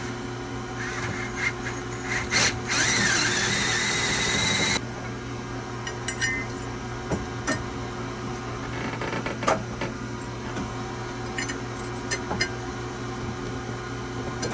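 Power drill running into wood for about two seconds, its pitch bending slightly under load, then stopping abruptly. Scattered knocks and clicks follow, over a steady low hum.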